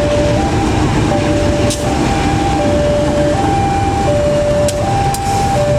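Railway level-crossing warning alarm sounding: two fixed tones alternating high and low, each held about three-quarters of a second, over the low rumble of a passing train with a few sharp clacks.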